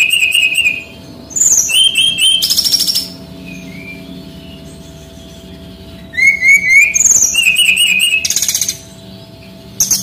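Male SRDC songbird singing loudly in bursts of high, rapid chirps and fast buzzy trills, with a pause of a few seconds in the middle before the next phrases.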